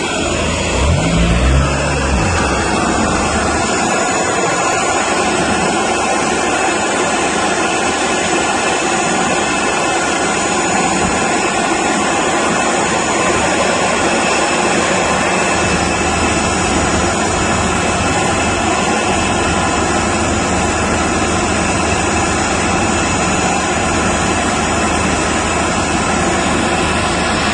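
Jet aircraft engines running: a loud, steady noise with thin high whining tones held over it, and a brief low rumble about a second in.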